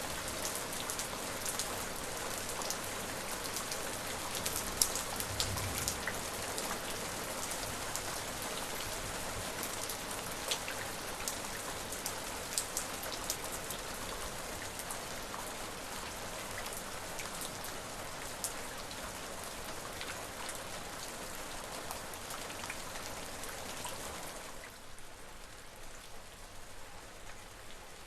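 Steady rain falling, an even hiss with many individual drops ticking sharply on a surface. About three-quarters of the way through it drops suddenly to a softer, duller level.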